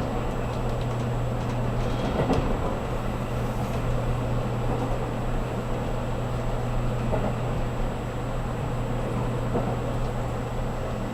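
Running noise heard inside a JR Kyushu 783 series limited express car at speed: a steady rumble of wheels on rail with a constant low hum.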